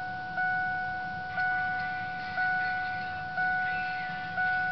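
A 1999 Ford F-250's dashboard warning chime dinging about once a second, each ding fading before the next, five dings, with the key on just before the engine is cranked.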